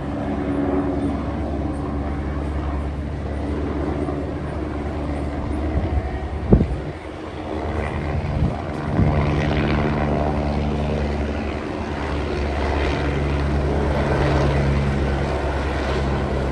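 Steady low engine drone with a few sharp knocks about six to nine seconds in.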